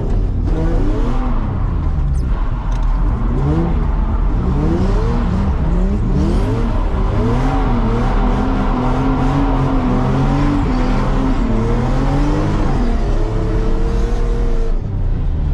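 Nissan 350Z's V6 engine revving hard on a drift lap, its pitch climbing and dropping again and again as the throttle is worked, holding fairly steady for a few seconds in the middle.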